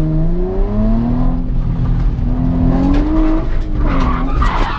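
Drift car's engine revving hard under acceleration. Its pitch climbs, drops about a second in, then climbs again. Near the end the tyres begin to squeal and skid as the car is thrown into a slide.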